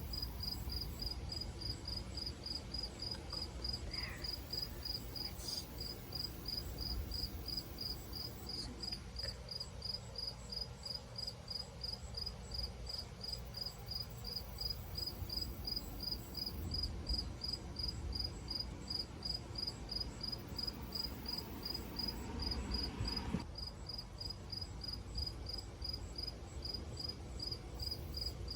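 Crickets chirping steadily, in a fast, even train of high chirps, over a low background rumble.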